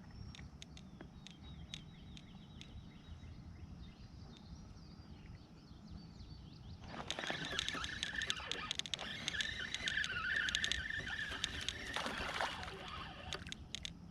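Fishing reel being cranked fast for about five seconds, starting about seven seconds in: a whirring with rapid dense clicks, as a small fish is reeled in.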